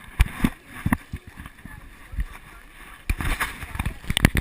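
River water splashing against a raft running a rapid, as a series of sudden loud hits over a steady rush: several early on, then a cluster about three seconds in and another near the end.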